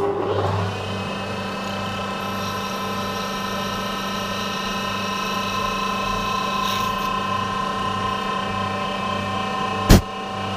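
Machine tool running steadily, drilling holes through a brass plate. It starts abruptly, with a steady whine over a low hum that pulses slowly. A single sharp knock comes near the end.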